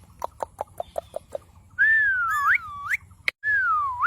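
Pet parrot making a quick run of short clucking clicks, then loud whistles that slide down in pitch and sweep sharply upward at the ends, twice, with a sharp click between them.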